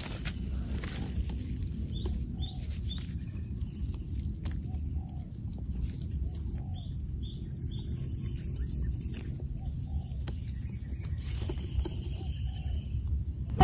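Small birds chirping outdoors in short groups of about three quick high notes, twice, over a steady low background noise, with faint rustling and clicks of gloved hands working through dry leaf litter.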